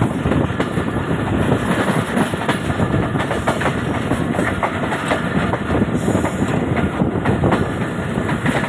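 Train running on the track: a continuous loud rolling noise with the wheels clacking over rail joints at irregular intervals.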